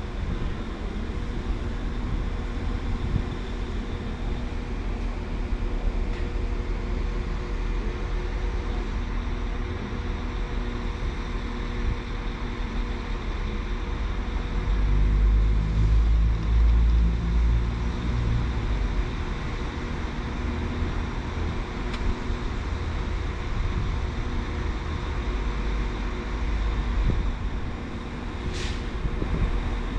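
Train running at a station platform: a steady engine rumble and hum with unchanging tones, swelling louder for a few seconds mid-way, and a brief high sound near the end.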